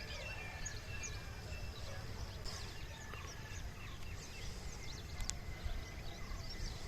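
Birds chirping and calling, with short high chirps scattered throughout, over a steady low rumble of outdoor background noise.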